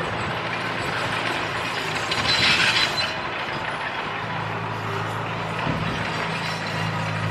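Komatsu D31P crawler bulldozer working, with a continuous rattling clatter of its running gear. A brief sharper, higher-pitched noise comes about two and a half seconds in. From about four seconds the engine's steady low hum stands out more strongly.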